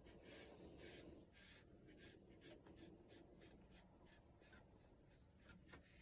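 Faint strokes of a round watercolour brush on paper, a run of short brushing sounds that come more quickly after about two seconds.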